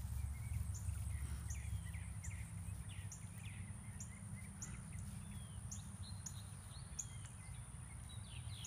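Birds chirping: a short high chirp repeated every half second or so, with some falling chirps, over a low rumble that eases over the first few seconds.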